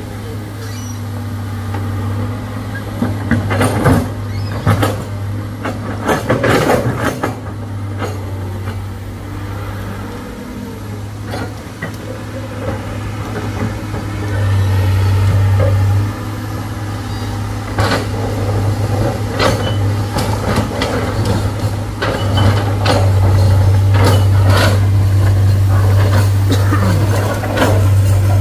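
Heavy vehicle engine running steadily and picking up at times, with scattered clanks and knocks.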